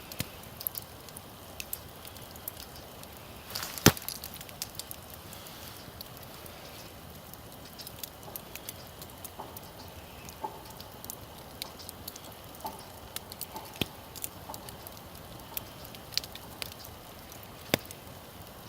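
Wood campfire crackling, with scattered sharp pops and one loud crack about four seconds in.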